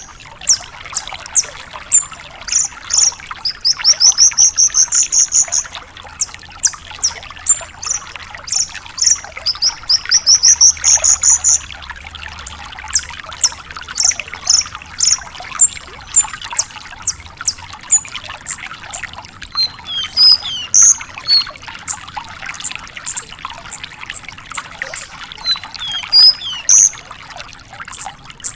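Branjangan lark singing a fast, varied song: runs of rapidly repeated high rising whistles and sharp chips, turning to sparser scattered notes and trills in the second half.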